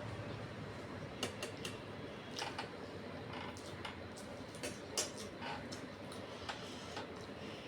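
Close-up eating sounds: irregular small mouth clicks and smacks while chewing a mouthful of rice, with a sharper click about five seconds in.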